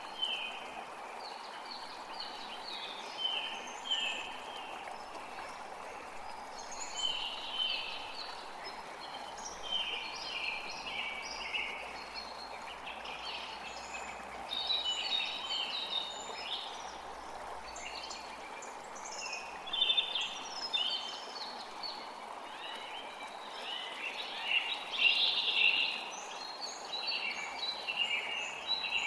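A forest creek flowing steadily, with songbirds chirping and singing over it in quick, repeated calls that get busiest about halfway through and again near the end.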